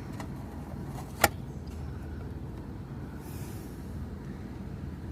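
A steady low mechanical hum, with one sharp click a little over a second in and a short hiss a little past three seconds.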